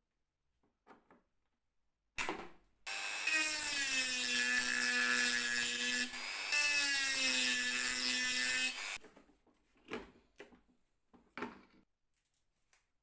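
Power drill running in two runs of about three seconds each with a brief pause between them, its whine dropping slightly in pitch as each run starts. A few short knocks follow near the end.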